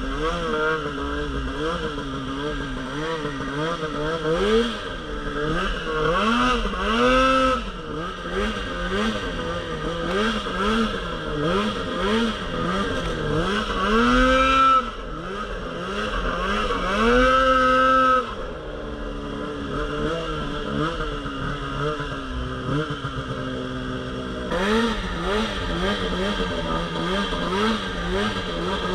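Polaris RMK Pro 800 snowmobile's two-stroke engine working hard in deep powder, its pitch rising and falling constantly with the throttle. Three times it is held briefly at high revs, and it then settles lower for several seconds before the choppy revving picks up again.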